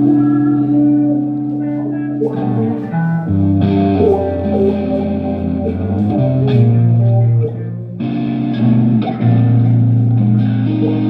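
Electric guitar played through an amplifier: held chords and single notes that change every second or so, a few of them bending in pitch.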